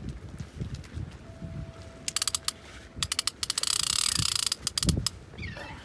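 Big-game fishing reel ratcheting in rapid bursts of clicks, starting about two seconds in and densest near the middle, as line moves through it during the fight with a large shark.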